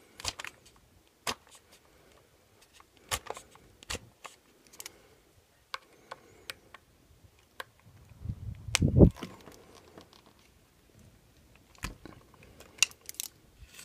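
Small, scattered clicks and taps of a precision screwdriver and plastic RC-truck parts being handled while a spur gear is fitted, with a louder knock and rumble about nine seconds in.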